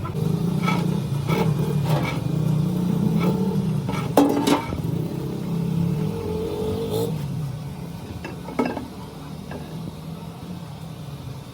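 A machine running steadily with a low hum, punctuated by sharp metallic clanks and knocks; the running sound fades down after about seven seconds, with one more clank near the end.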